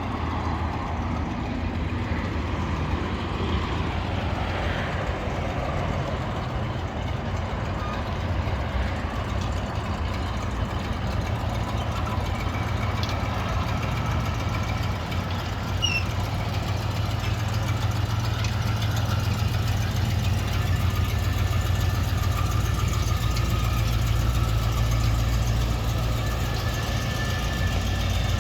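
An RV's 350 V8 engine running steadily at low speed as it is backed into place, growing a little louder in the second half.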